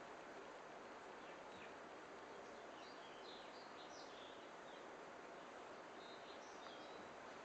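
Faint high bird chirps in short clusters, over a steady low hiss of near silence.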